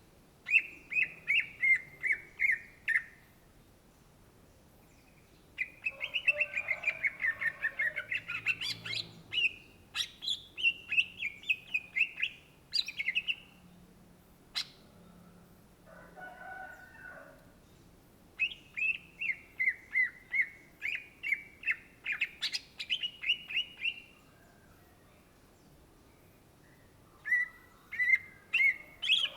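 Greater green leafbird (cucak ijo) singing in four bouts of quick repeated chattering notes, each run stepping down in pitch, with short pauses between them. A fainter, lower call comes about halfway through.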